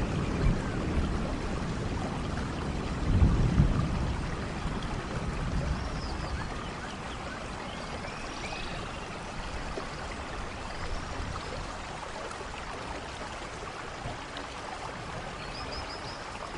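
Steady rainfall with a low rumble of thunder swelling about three seconds in, then the rain carries on more quietly.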